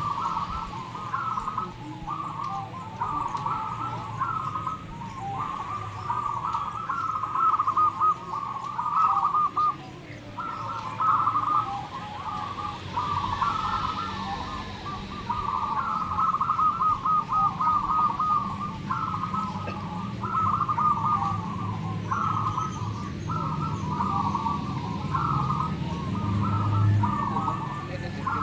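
Many zebra doves (perkutut) cooing at once, their rhythmic call phrases overlapping into an almost unbroken chorus.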